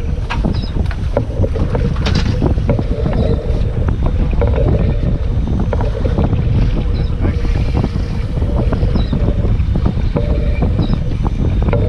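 Small fishing boat underway: wind buffets the microphone with a heavy rumble, the hull knocks repeatedly over the chop, and a motor tone comes and goes.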